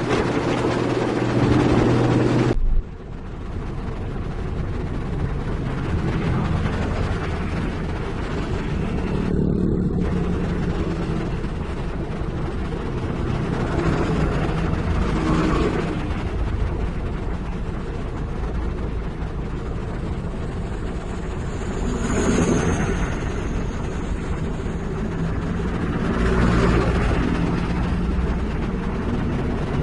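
Heavy diesel engine of construction equipment running, dropping suddenly in level about two and a half seconds in, then swelling and easing every few seconds.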